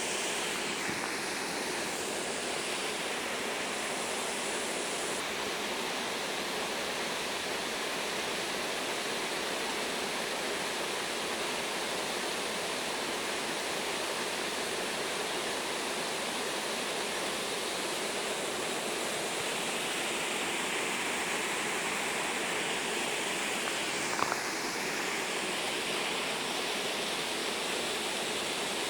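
Mountain stream water rushing steadily, with a single short click about two-thirds of the way through.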